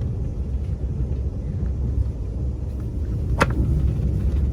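Low, steady rumble of an Amtrak Venture passenger car running at speed, heard from inside the coach. There is one brief sharp click about three and a half seconds in.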